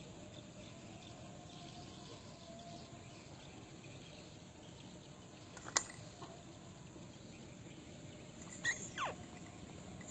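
Quiet outdoor background hiss, with one sharp click about six seconds in and a short call that falls in pitch near the end.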